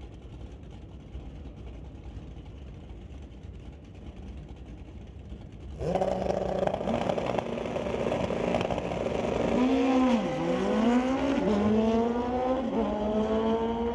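Drag-racing motorcycle engines cut in suddenly and loudly about six seconds in, revving up and down with two quick dips in pitch, then held at high steady revs.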